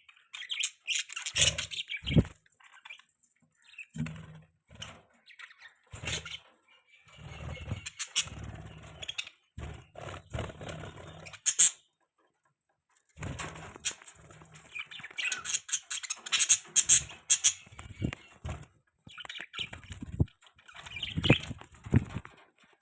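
Budgerigars chirping and twittering in quick, irregular bursts, with occasional low thumps among the calls. The chirping breaks off for about a second halfway through.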